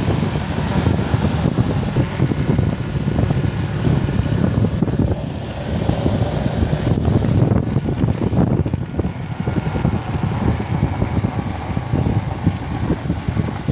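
Rumbling noise of a motorcycle ride on an uneven hilly road, with wind buffeting the microphone.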